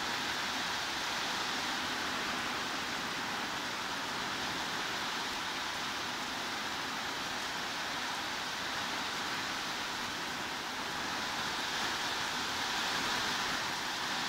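Heavy rain falling steadily, an even hiss without distinct drops or breaks.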